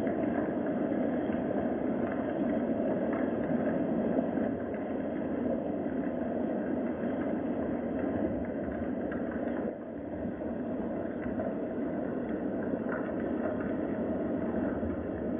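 Steady rain ambience: an even rushing noise with faint scattered patter and no change in pace.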